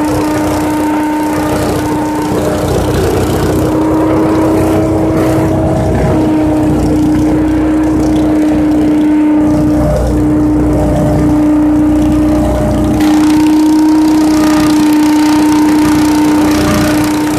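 Leaf vacuum running steadily while sucking up leaves, a constant pitched hum over the rush of air. It gets a little louder about thirteen seconds in.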